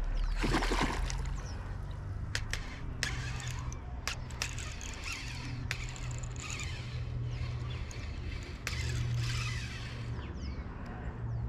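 Fishing reel working against a large fish on the line: scattered clicks from the reel's mechanism, with bursts of water splashing.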